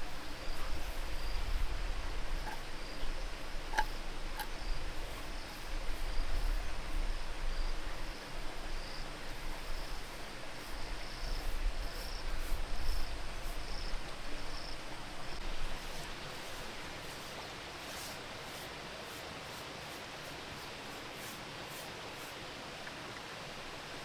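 Outdoor ambience: faint, regularly repeated high chirps and a few clicks over a low rumble, giving way about two-thirds through to a steady hiss.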